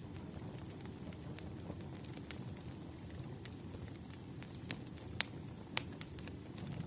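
Wood fire burning: a steady low rumble of flames with irregular sharp crackles and pops of the burning logs, a few louder snaps in the second half.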